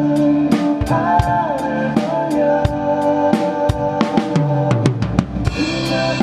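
Acoustic drum kit played over a song's backing track, with kick, snare and steady cymbal strokes. A busier run of strokes comes about four to five seconds in and lands on a cymbal crash.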